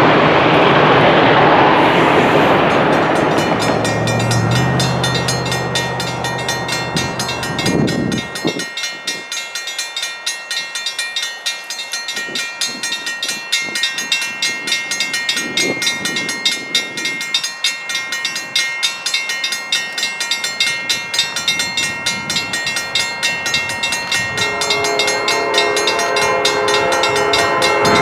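Reading & Northern 4-6-2 steam locomotive No. 425 working a train, loud and noisy at first, then a steady rhythmic beat. Near the end its six-chime whistle (a Southern Railway whistle) starts to blow, several notes sounding together.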